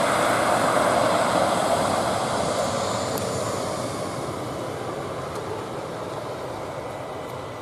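Embraer E190 jet airliner's twin General Electric CF34 turbofans, a steady jet roar that fades gradually as the aircraft moves away.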